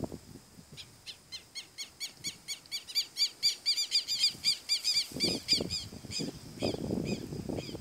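A bird calling a long, even series of repeated high notes, about five a second, swelling in loudness and then fading away. A low rustling noise comes in over the last few seconds.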